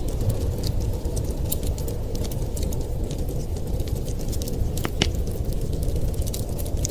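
Wood fire crackling in a fireplace, scattered sharp pops and ticks over a steady low rumble of wind, with one louder pop about five seconds in.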